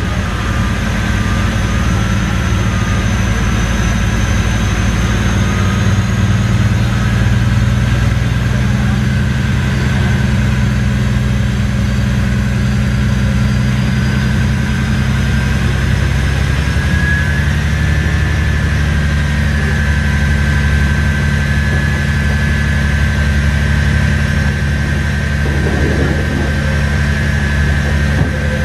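Cummins QSK45 V12 diesel engine of a diesel-electric multiple unit running steadily, mostly its exhaust note heard: a continuous low drone whose pitch steps up slightly a couple of times, with a faint high whine above it.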